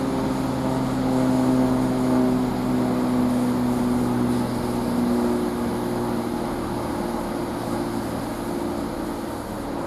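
Chiltern Railways Class 165 diesel multiple unit's engines running with a steady pitched drone that slowly fades.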